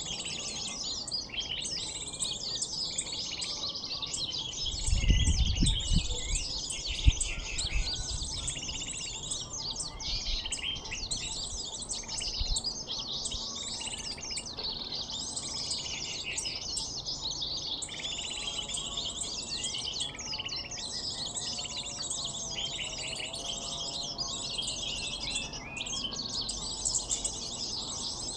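Dense, unbroken high-pitched chirping and twittering of small birds, a bird-lure recording played to draw in sunbirds. A few low thumps come about five to seven seconds in.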